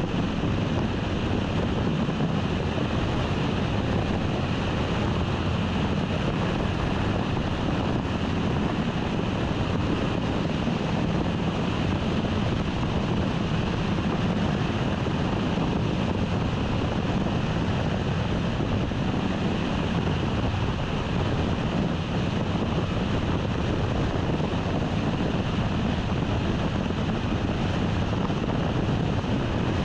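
Steady road and wind noise of a car being driven, an even rushing hiss with a low rumble underneath.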